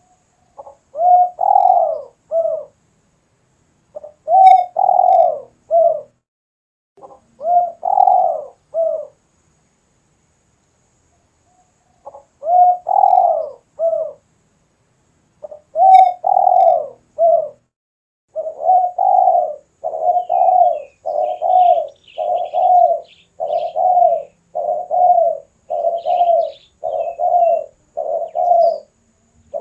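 Spotted dove cooing loudly in short phrases of a few coos with pauses between them, then, about two-thirds of the way through, in a rapid unbroken run of coos. Faint high chirps from another small bird sound near the end.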